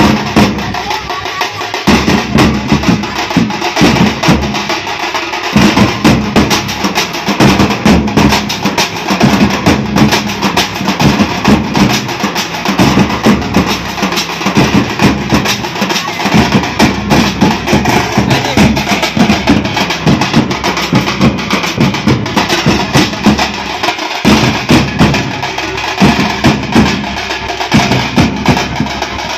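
A drum band playing a fast, loud, continuous beat of dense, rapid strokes.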